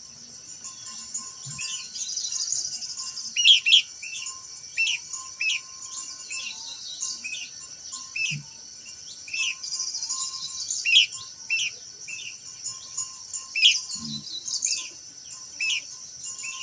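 Khướu lùn (a minla) singing: short, sharp chirps that slide downward, repeated about once or twice a second over a steady high-pitched buzz.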